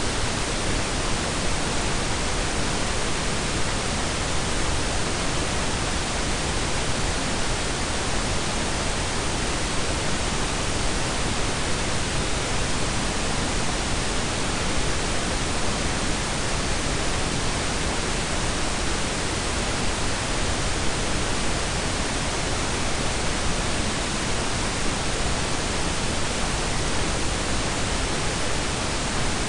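Steady blend of pink and brown noise: an even, unchanging hiss with a deep rumble underneath.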